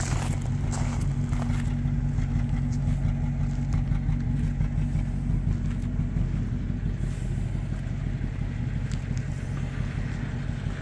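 1946 Buick Super's straight-eight engine idling steadily.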